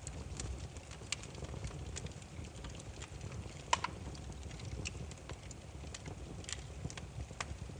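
Burning firewood crackling: scattered sharp pops and snaps over a low steady rumble of the flames, with one louder double snap a little under four seconds in.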